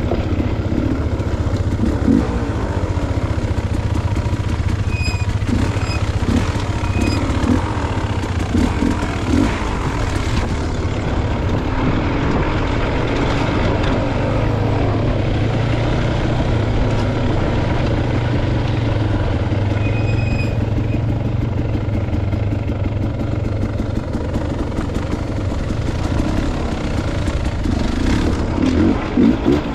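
Dirt bike engine running on a trail ride, revving up and down unevenly as the throttle is worked over the terrain.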